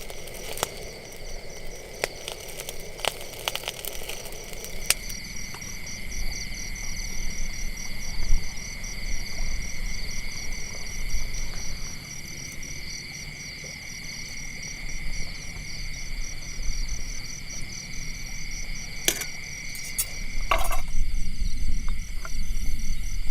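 A chorus of night insects chirring steadily in several high pitches, one of them pulsing rapidly. A few sharp snaps come in the first five seconds and again near the end.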